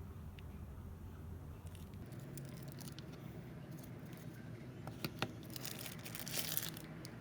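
Packaging being handled: plastic or paper crinkling with scattered sharp clicks, starting about two seconds in. Two louder clicks come past the middle, and a denser burst of crinkling follows near the end.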